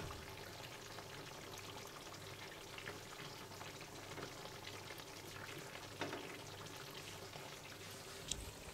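Chicken and halved tomatoes cooking in oil and water in a wok, sizzling faintly and steadily, with a sharper click about six seconds in and another near the end.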